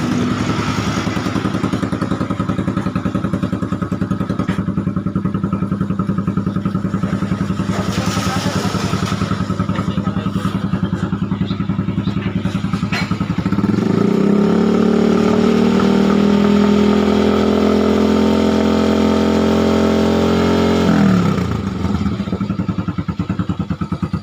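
Motorcycle engine running through a muffler-shop exhaust, idling with a steady pulse. About halfway through it is revved up and held at higher revs for about seven seconds, then drops back to idle.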